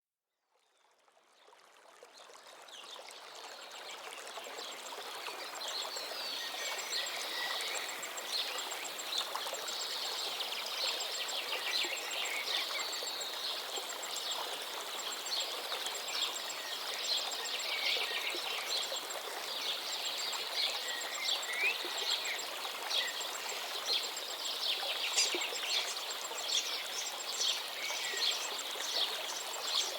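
Running water with many birds chirping over it, fading in over the first few seconds.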